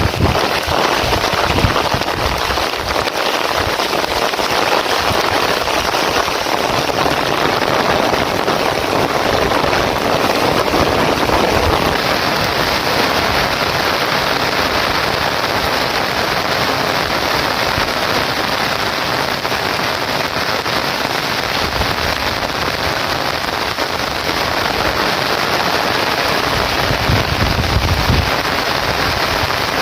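Heavy rain falling steadily, a dense, even hiss of downpour with low rumbling patches near the end.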